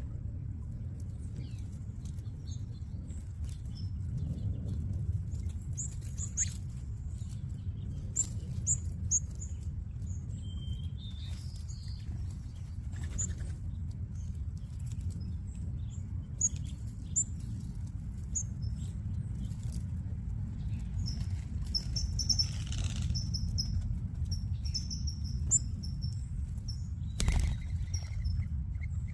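A flock of small seed-eating birds feeding, with many short high chirps, wing flutters and light patter over a steady low rumble. A single sharp knock comes near the end.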